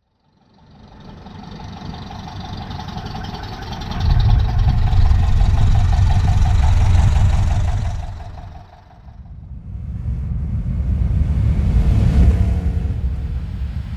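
A car engine revving in two long, loud swells, the first about four seconds in and the second near the end, over a fainter steady whine in the first half.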